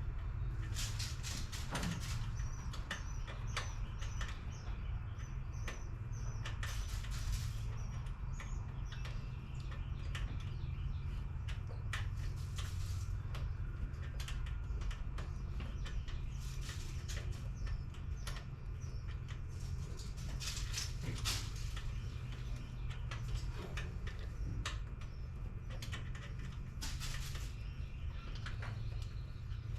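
Scattered clicks, clinks and knocks of hand work on car engine parts, over a steady low rumble. A bird chirps a quick series of small notes a few seconds in.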